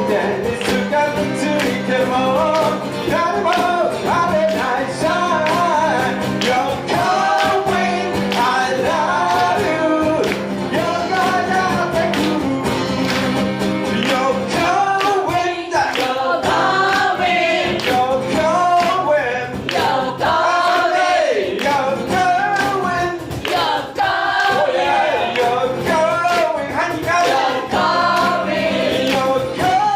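Live band performing a song: singing over guitar accompaniment, with a sustained low chord under the first half.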